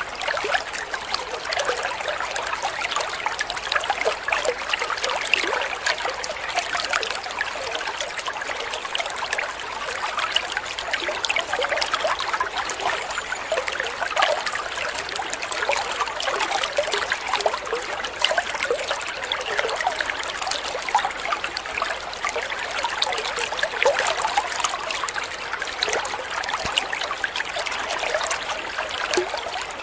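Flowing water trickling and babbling steadily, a light, even splashing without a deep rush.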